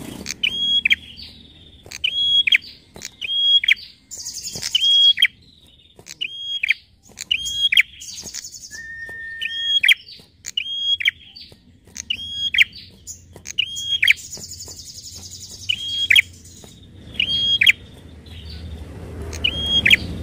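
A prinia (prenjak) calling over and over in sharp hooked notes, about one a second, mixed with dry clicks. Brief buzzy trills come about four seconds in and again near fourteen seconds, and a short flat whistled note sounds near nine seconds.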